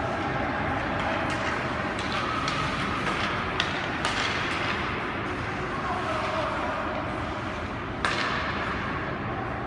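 Ice hockey game in a rink: steady arena noise with scattered sharp clicks of sticks and puck, and a louder knock about eight seconds in.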